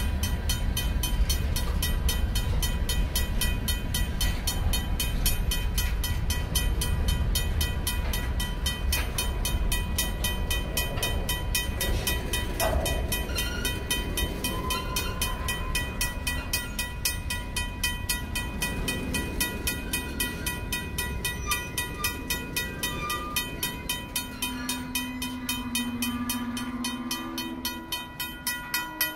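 Freight train's covered hopper cars rolling past with a heavy rumble of wheels on rail, while a crossing signal's mechanical bell rings rapidly. Near the end the rumble eases and separate wheel clacks stand out.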